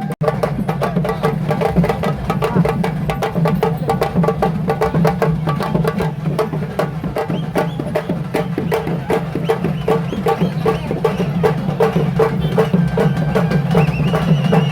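Fast, dense traditional drumming, rapid strikes packed closely together without a break, over a continuous low drone.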